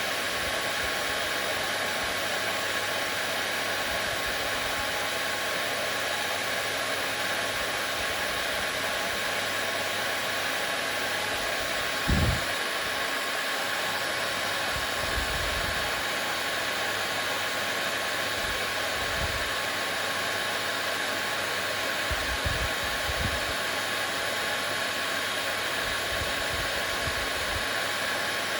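Hair dryer running steadily: a constant rushing hiss of blown air with a faint steady whine in it. A few short, soft low thumps come and go, the loudest about twelve seconds in.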